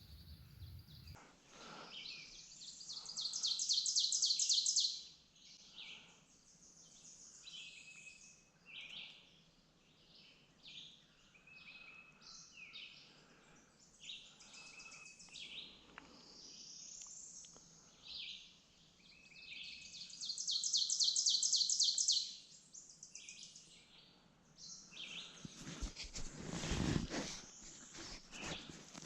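Songbirds singing and calling, with two loud, fast, high-pitched trills, one about three seconds in and another about twenty seconds in. Near the end comes a brief burst of low rumbling noise.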